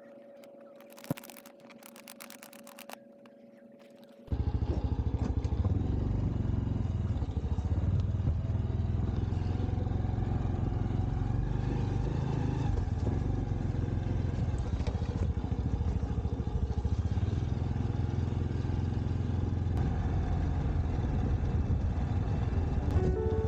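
Motorcycle running on the road, a loud steady engine and road noise heavy in the low end, which cuts in suddenly about four seconds in. Before that there is only a faint steady hum with a few clicks.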